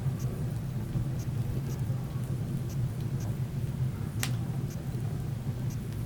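Wood fire burning in a fireplace: a steady low rumble with small crackles every half second or so, and one sharp pop about four seconds in.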